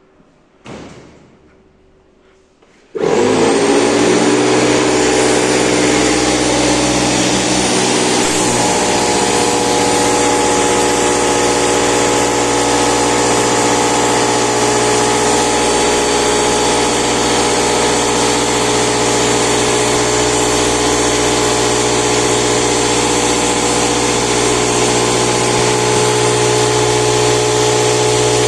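Air compressor starting abruptly about three seconds in and then running steadily and loudly, with a strong motor hum. A brief thump comes just under a second in, before it starts.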